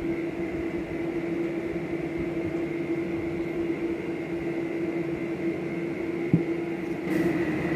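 Steady machine hum with one constant low tone and a fainter high one, and a single short knock about six seconds in.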